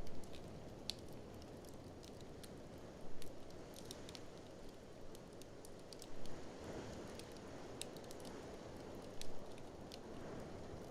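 Wood fire in a fireplace crackling, with scattered sharp pops and a few louder snaps about every three seconds, over a steady low rumble of blizzard wind.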